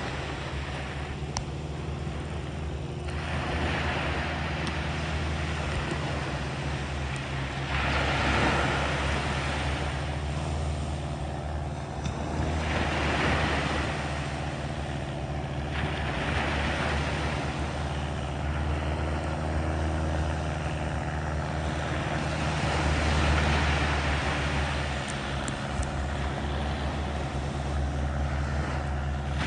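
Small waves washing onto a sandy beach, a surge of surf every four or five seconds, over a steady low engine drone.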